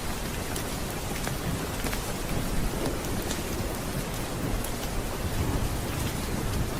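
Steady rain with a low rumble of thunder underneath, and a few sharp scattered crackles.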